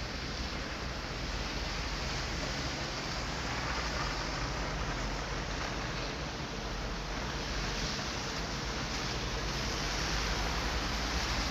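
Steady rushing noise with a faint low hum underneath and no distinct events.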